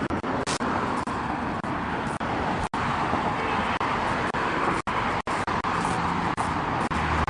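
Steady street traffic noise, with the sound cutting out for an instant several times and a low hum coming in near the end.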